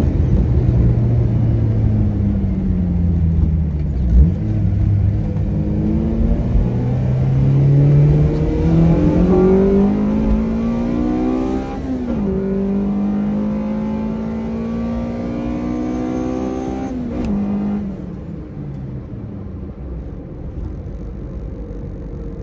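Honda CRX engine revving up through the gears, its pitch climbing and breaking at gear changes about four and twelve seconds in. It then holds a steady pitch and drops away near the end as the car eases off.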